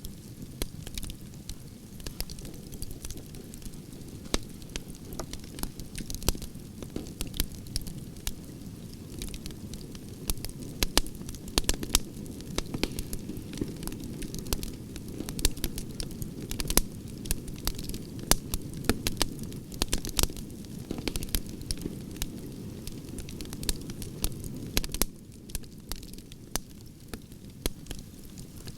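Wood fire burning, with a steady low rumble of flames and frequent sharp pops and crackles from the burning logs. The rumble eases a little near the end.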